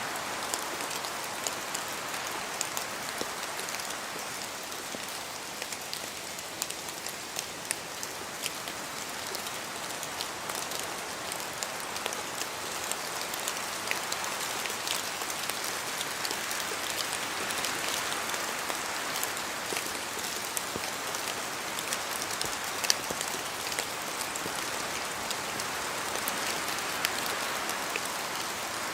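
Rain falling in a forest, with many separate drops ticking down from the trees over a steady rushing hiss that swells and eases slowly.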